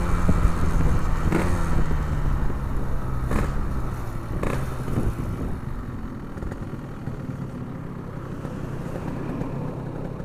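Yamaha RX King 135cc two-stroke single with an Abbox C20 aftermarket exhaust, running under way, then easing off so it grows quieter over the first six seconds. A few sharp clicks come through along the way.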